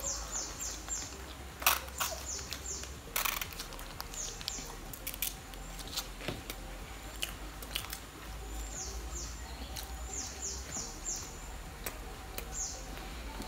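A small bird chirping in runs of quick, high chirps that fall in pitch, repeated several times, over paper wrapper crinkling, the tearing of a sauce sachet and chewing.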